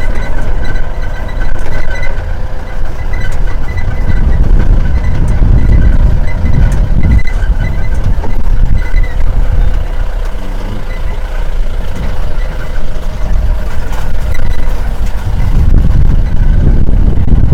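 A safari vehicle driving along a rough dirt track, its engine running under a heavy, uneven low rumble from the ride.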